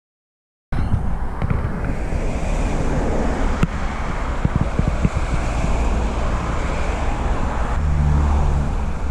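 Wind buffeting the microphone with a heavy low rumble, cutting in suddenly under a second in and running on steadily.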